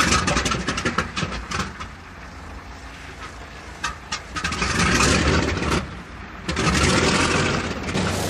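B-29 Superfortress Wright R-3350 radial engine starting in the cold: irregular pops and coughs as it catches, then running unevenly, its sound rising and falling back twice.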